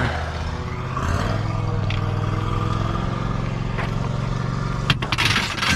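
A vehicle engine running steadily, its pitch shifting about a second in, with a sharp knock and a brief clatter near the end.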